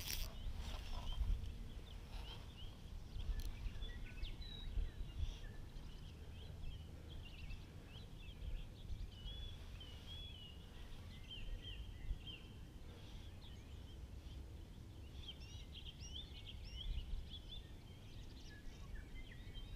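Small birds chirping and twittering, many short high calls, over a low steady rumble on the microphone.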